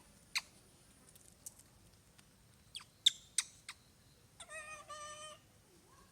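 Baby monkey calling: several quick, sharp, high-pitched squeaks, then a wavering high-pitched squeal in two parts lasting about a second.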